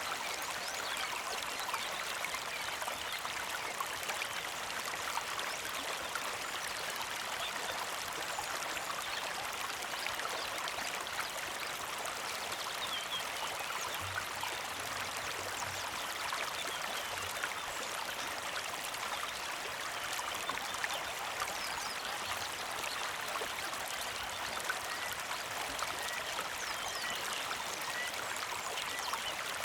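Small mountain creek trickling and babbling steadily over rocks, a dense, even water sound.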